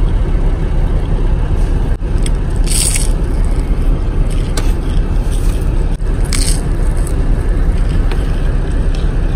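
Eating sounds over a steady low rumble: two short scrapes or crunches, about three seconds in and again about six and a half seconds in, with a few fainter ticks between.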